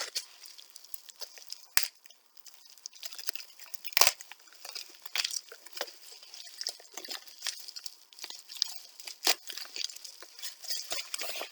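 Plastic bubble wrap being handled and pulled off a book, crinkling and rustling irregularly, with a few sharper crackles about two, four and nine seconds in.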